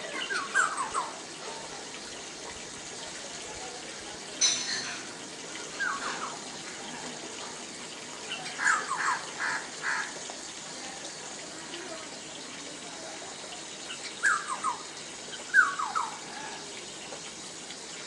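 Bird calls: short clusters of quick, downward-slurred notes, repeated every few seconds over a steady background hiss.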